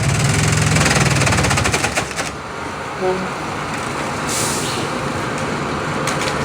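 Bamboo-chipping machinery running with a fast, even rattle and a low rumble. The rattle cuts off about two seconds in, leaving a steadier machine noise, with a short hiss a little after four seconds.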